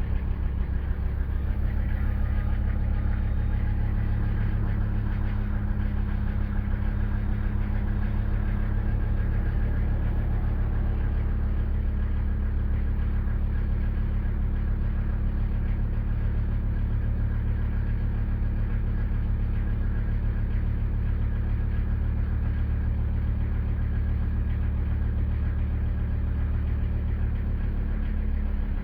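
Mercedes-Benz 300TD's five-cylinder turbodiesel engine idling steadily while still cold, just after a cold start in freezing air.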